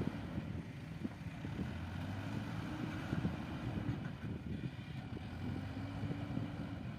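Heavy construction machine's engine running, a rough low rumble whose pitch drifts up and down slightly with engine speed.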